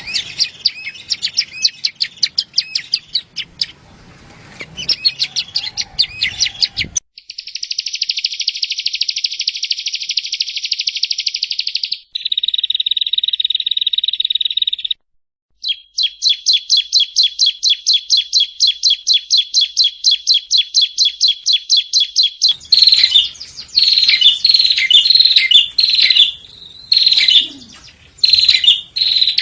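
Prenjak rowo (yellow-bellied prinia) song in spliced sections that start and stop abruptly: rapid chirping, then a long buzzy trill and a shorter lower trill, then a long run of quick, evenly repeated notes at about six a second, and near the end louder separate chirps.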